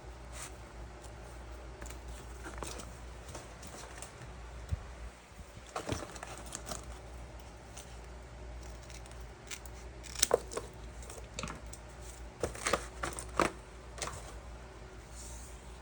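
Hand-handling noises of small materials being worked: scattered sharp clicks and taps with some rustling, over a low steady hum, with the loudest clicks bunched about ten seconds in and again around twelve to fourteen seconds in.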